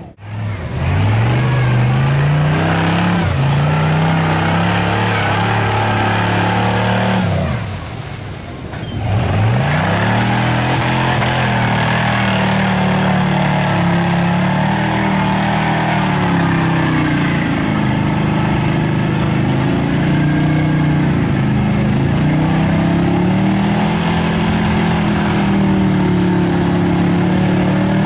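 Mud truck engine revving hard at full throttle. The revs climb steeply about a second in, drop off with a lift of the throttle around eight seconds in, then climb again and stay high, rising and falling.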